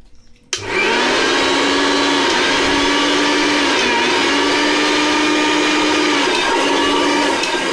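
Billion MG101 550 W mixer grinder's motor switched on about half a second in, running at full speed with a steady high whine and a few brief dips in pitch, then switched off near the end and beginning to wind down.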